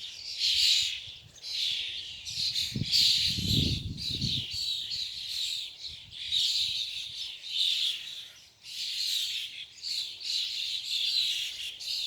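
A group of birds making harsh, scratchy calls over and over, about one or two a second, in the din the speaker calls courting noise. A brief low rumble comes about three seconds in.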